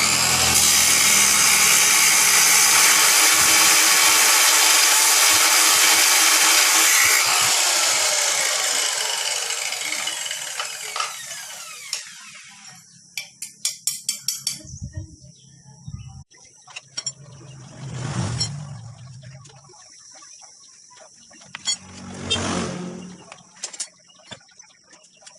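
Handheld electric power tool running at full speed with a loud hiss for about seven seconds, then switched off and winding down with a falling whine. Light clicks and taps follow, with two short low sounds later on.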